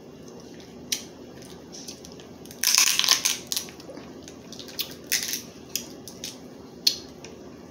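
Crab leg shells being cracked and broken apart, a series of sharp cracks and crackly crunches with the loudest bursts about three seconds in and again around five seconds in.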